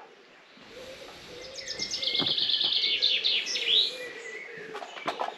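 A small songbird singing one phrase of about two seconds: a fast run of high notes ending in a few quick sweeping notes.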